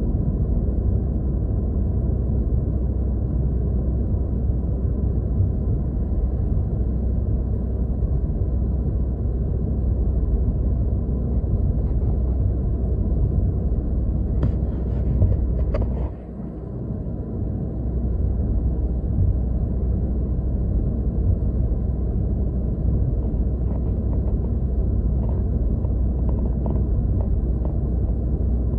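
Steady low rumble of a car's engine and road noise, heard inside the cabin while driving. About halfway through, a few faint clicks come just before a brief drop in the rumble, which then builds back up.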